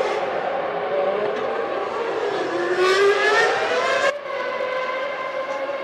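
Formula One race car engines running at high revs. One rises in pitch for about two seconds as it accelerates, the sound breaks off abruptly about four seconds in, and another engine follows at a steadier pitch.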